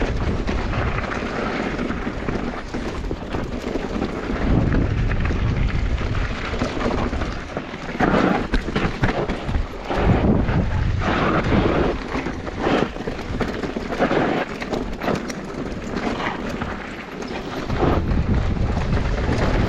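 Mountain bike riding down a bike-park trail: wind rumbling on the microphone, with the bike's tyres on the dirt and its frame rattling over bumps in quick irregular knocks.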